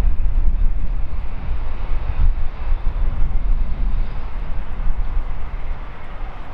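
A train rumbling through the station behind LNER A4 Pacific steam locomotive 4498 Sir Nigel Gresley: a loud, steady low rumble with no distinct exhaust beats.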